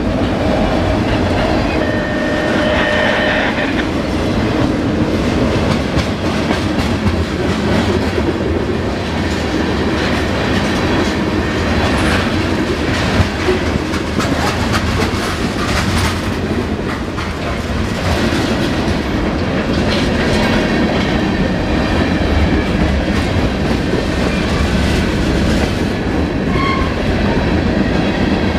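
Freight train rolling past, autorack cars then covered hoppers, with a steady loud rumble and wheels clattering over the rail joints. A few sharp clanks come midway.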